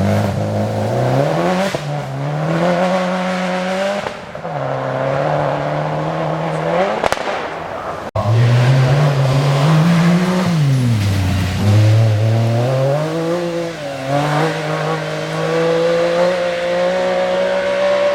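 Rally car engines revving hard, the pitch climbing and dropping again and again with gear changes and lifts. The sound breaks off abruptly about eight seconds in and a second run picks up.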